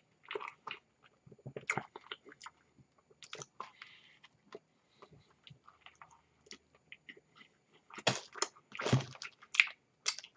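A person chewing a chicken tender sub close to the microphone: irregular wet mouth clicks and smacks, which get louder and denser about eight to ten seconds in.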